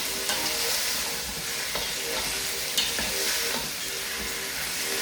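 Diced onions frying in hot rapeseed oil in a pan with a steady sizzle, broken by a few short clicks.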